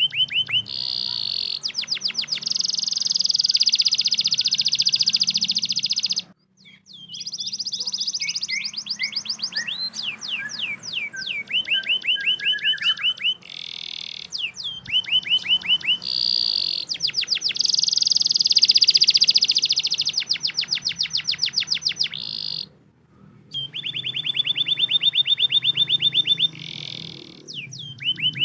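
Domestic canary singing long, rapid trills and rolls of fast repeated notes, with two abrupt breaks in the song. It is a loud, busy trigger song of the kind played to stir quiet or lazy canaries into singing.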